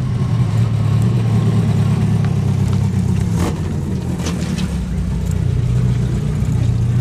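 A car engine running steadily with a deep, low hum, and a few faint ticks about halfway through.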